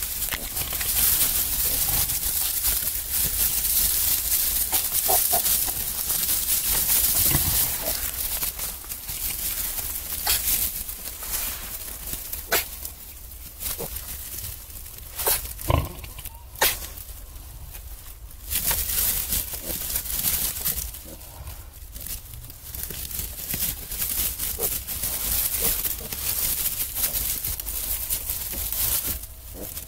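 Newborn piglets moving about and giving a few short squeals and grunts, over a steady rustling hiss.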